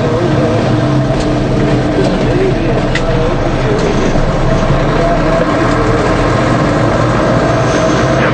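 DAF 75 lorry's diesel engine running steadily under way, with road noise. A faint voice-like sound runs along with it.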